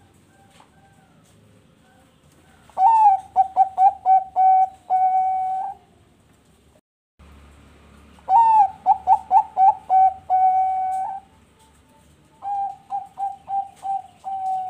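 Zebra dove (perkutut bangkok) cooing three song phrases, each a quick run of short, bubbling notes ending in a longer held note. The first two are loud; the third, near the end, is softer.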